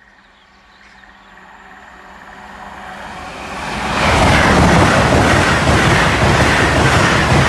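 LNER Class 801 Azuma electric train approaching, growing steadily louder over the first few seconds, then rushing past close by from about four seconds in with loud wheel and track noise.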